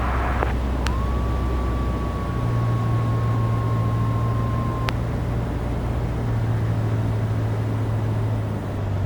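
Single-engine Cessna's piston engine droning steadily in the cockpit, its pitch shifting up about two seconds in. A steady high tone sounds for about four seconds, starting and stopping with a click.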